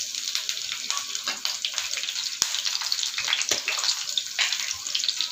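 Sliced ginger, green chillies and curry leaves sizzling in hot oil in a frying pan for a tadka (tempering), a steady hiss with frequent sharp crackles and pops.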